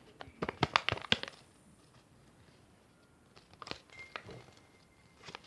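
A quick run of sharp knocks, about eight in just under a second, then a couple of softer knocks and a faint steady high tone near the end.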